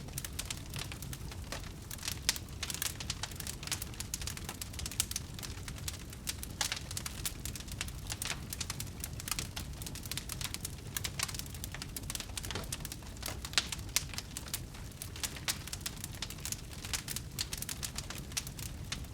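Wood fire crackling: a dense, irregular run of small pops and snaps over a steady low rumble of burning.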